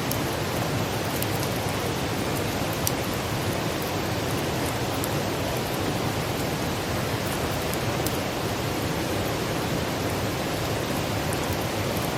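Wood campfire burning with a steady rushing hiss of flame, dotted with small crackles and pops from the wood, one a little sharper about three seconds in.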